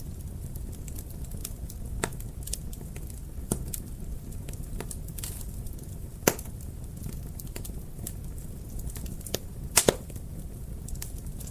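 Wood fire crackling in a fireplace: irregular sharp pops and snaps over a steady low rumble of flames, with one loud pop about six seconds in and a quick double pop near the end.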